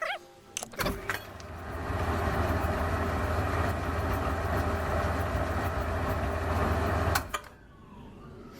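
Electric motor of a small workshop machine switched on after a couple of clicks, running steadily with a low hum for about six seconds, then switched off and cutting out quickly.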